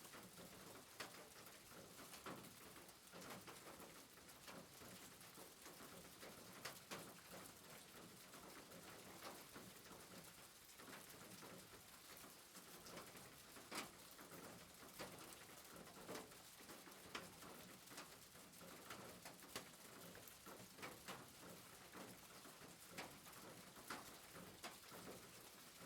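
Faint soft rain, an even hiss with scattered drips and taps at irregular intervals.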